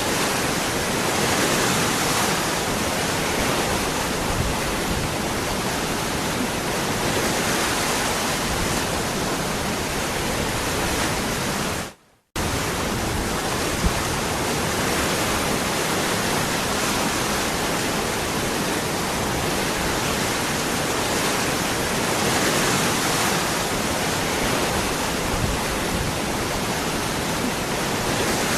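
Waterfall: steady rushing, splashing water, cutting out abruptly for a fraction of a second about twelve seconds in before resuming.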